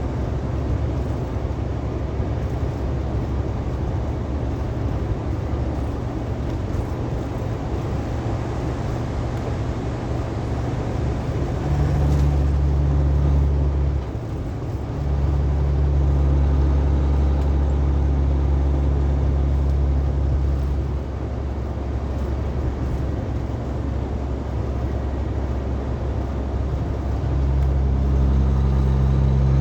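Truck on the road: a steady low rumble of engine and road noise, with a deeper hum that swells louder for stretches and drops back, about twelve seconds in, again from about fifteen to twenty-one seconds, and near the end.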